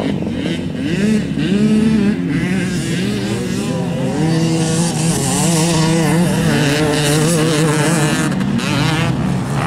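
Motocross motorcycle engines revving hard, their pitch climbing and dropping again and again through gear changes, with more than one bike heard at once.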